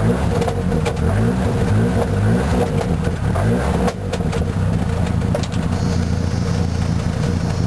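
Ford Mustang's 2.3-litre turbocharged inline-four running loud through an exhaust whose muffler was blown out by backfires. Its pitch rises briefly again and again in the first few seconds, with a few sharp pops, then it settles to a steadier run.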